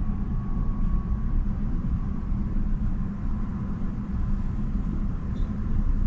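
A steady low rumble with no speech, and a faint thin tone that fades out about a second and a half in.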